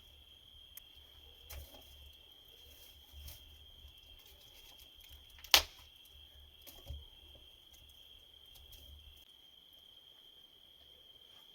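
Cricket trilling steadily in a high, even tone. A single sharp click about five and a half seconds in, with a few fainter knocks around it.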